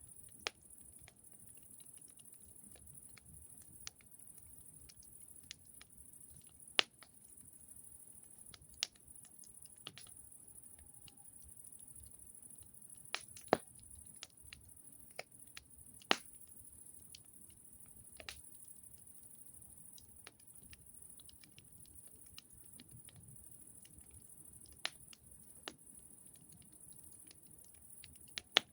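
Wood fire crackling: irregular sharp pops and snaps, a few of them louder, over a steady high hiss.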